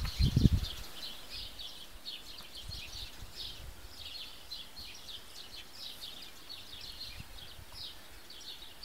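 Small birds chirping busily and continuously in a quick, irregular stream of short high chirps. A brief low rumble in the first half-second is the loudest sound.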